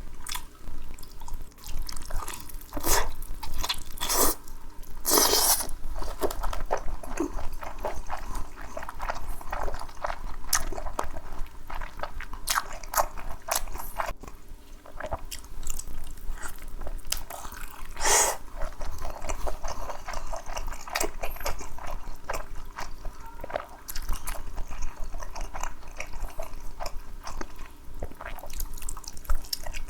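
Close-miked eating: a person biting and chewing food, with irregular wet chewing clicks and a few louder crunchy bites along the way.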